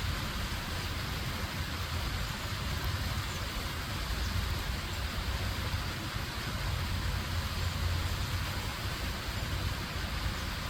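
Stream water rushing and bubbling steadily over rocks, with a deep low rumble underneath.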